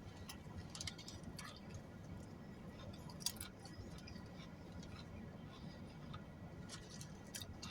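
Faint chewing: scattered small wet clicks and crackles of a mouth eating, with one sharper click about three seconds in.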